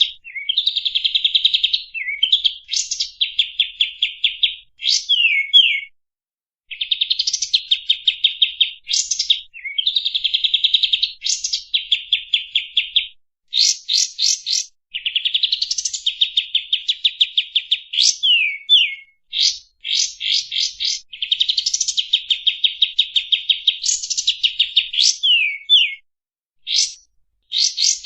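Kapas tembak songbird singing: loud, fast, rattling trills broken by quick upward-sweeping whistles, phrase after phrase with short pauses between them.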